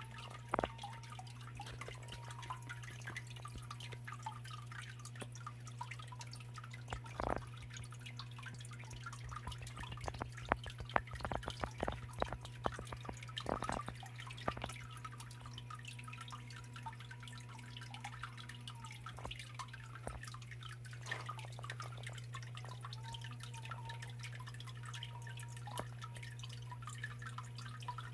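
Small waterfall in a rock-lined garden biotope pond: water trickling and dripping over stones, with irregular drips and splashes that grow busier about halfway through, over a steady low hum.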